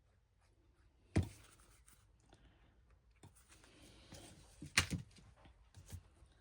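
Quiet handling of paper and craft pieces on a table: soft rustling, with two light clicks or taps, about a second in and again about five seconds in.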